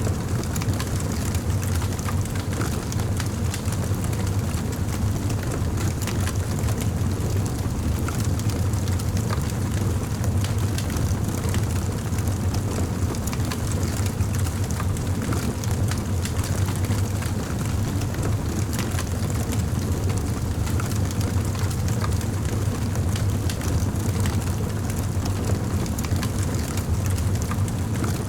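Campfire burning: a steady low rumble of the flames with frequent small crackles and pops.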